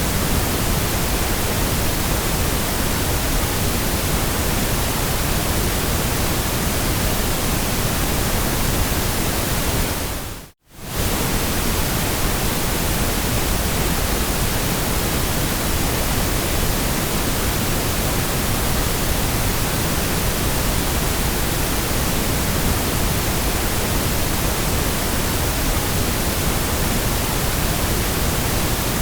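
Steady generated white noise: an even, unchanging hiss spread across all pitches. About ten seconds in it briefly fades out to silence and straight back in.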